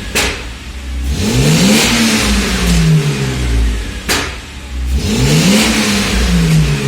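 Mercedes-Benz W124 E500's 5.0-litre V8 revved twice, each time the revs climbing quickly and then dying away slowly. A sharp crack comes at the very start and another about four seconds in.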